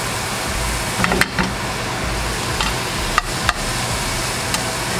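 Shrimp and garlic frying in oil in a nonstick pan, a steady sizzle, with a few sharp clicks and knocks as the shrimp are turned over in the pan.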